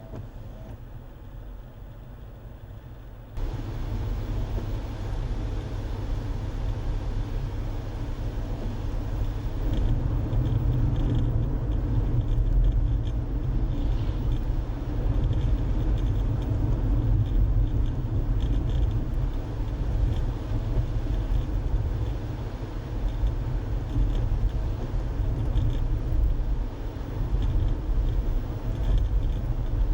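Car road and engine noise heard from inside the moving car, a steady low rumble that turns abruptly louder about three seconds in.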